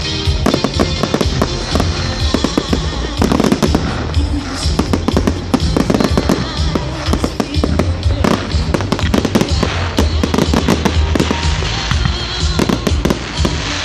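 Fireworks going off in rapid succession, a dense run of bangs and crackles with music playing underneath.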